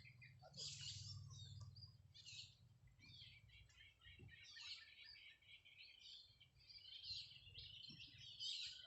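Birds chirping faintly, with many short high calls one after another and no clear repeating song.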